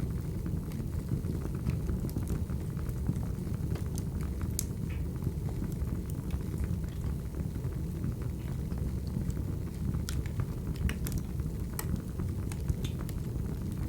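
Wood fire crackling: a steady low rumble of flames with scattered sharp snaps and pops at irregular moments.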